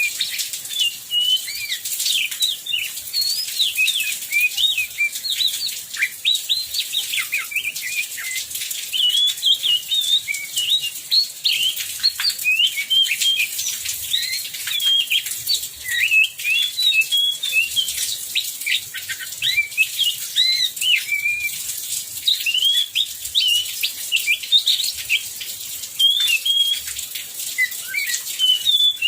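Oriental magpie-robin (kacer) singing without pause: a fast, varied stream of short chirps and whistles. An even hiss of heavy rain lies behind it.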